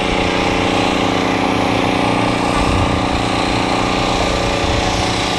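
An engine running steadily at a constant speed with an even hum, no revving.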